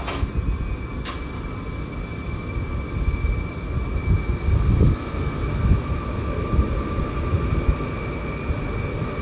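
Train running on the track: a loud, steady low rumble with a thin high squeal held throughout, and a sharp click about a second in.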